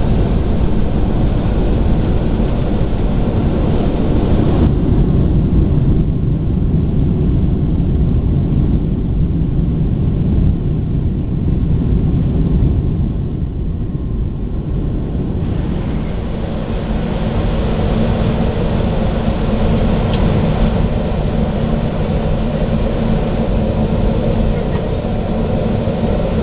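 Cabin noise inside a Boeing 757 on the ground after landing: a steady, loud rumble of engines and rolling wheels, easing somewhat about ten seconds in.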